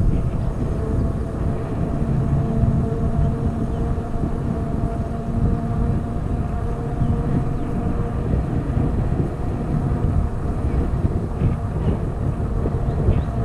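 Steady riding noise from an electric bike underway: wind buffeting the microphone and tyre rumble, with a faint steady hum underneath.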